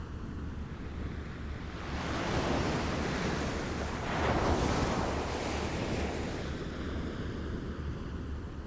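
Small waves lapping at the shore: one wave washes in about two seconds in, is loudest around the middle, and slowly draws back, over a steady low rumble of wind on the microphone.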